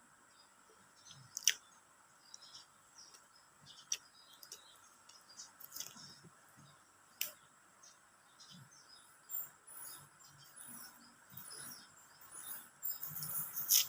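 Close-up eating sounds: chewing with sharp mouth clicks and smacks every second or two, busier near the end, over a faint steady chirring of insects.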